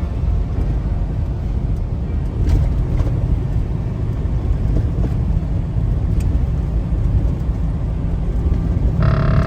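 Steady low rumble of a semi truck's engine and tyres heard inside the cab at highway speed. Near the end a steady tone with many overtones starts.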